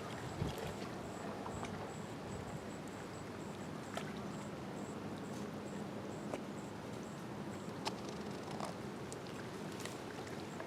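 Small lake waves lapping against a rocky shore, with a steady wash and a few light splashes and knocks scattered through it. A faint steady low hum runs underneath.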